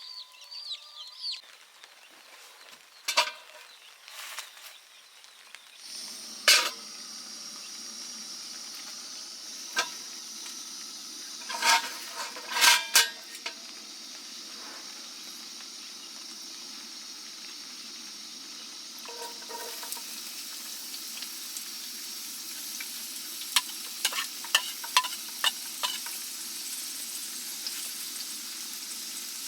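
Food frying in a pan, a steady sizzle that starts about six seconds in and grows a little louder later on, with scattered clinks and knocks of a utensil against the pan.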